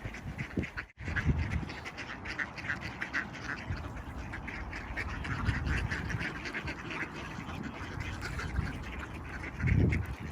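A flock of mallard ducks quacking continuously, many short overlapping calls. A low rumble on the microphone swells about a second in and again near the end.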